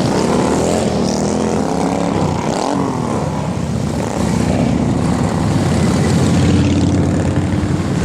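Motorcycle engines running, their pitch rising and falling in the first few seconds, then settling into a steadier drone.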